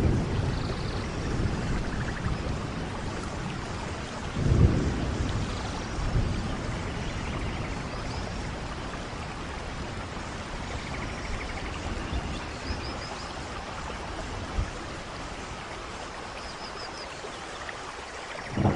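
Steady rainfall with low rumbles of thunder, the strongest about four and a half seconds in, easing off toward the end.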